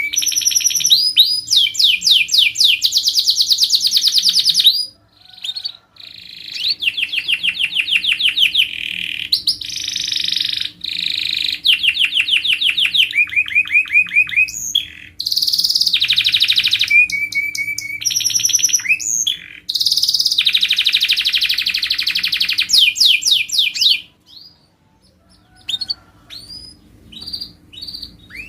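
Domestic canary singing: long, rapid trills and rolls of quickly repeated notes, broken by short pauses about five seconds in and near the end, where the song thins to scattered chirps.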